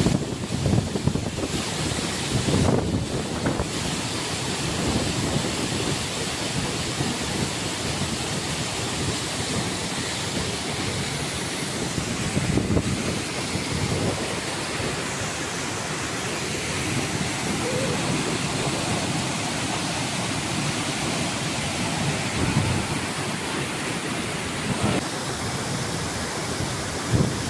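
Waterfall rushing steadily, with a few low buffets of wind on the microphone.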